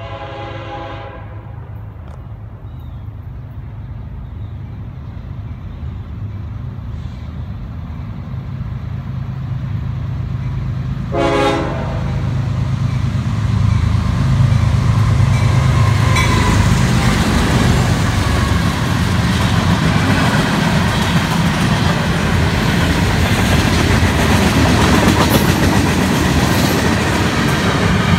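CSX freight train led by two GE ES40DC diesel locomotives approaching and passing, its engine rumble growing steadily louder. A horn blast fades out about a second in, and a short horn toot sounds about eleven seconds in. From about sixteen seconds on, the steady rolling noise of the freight cars' wheels on the rails.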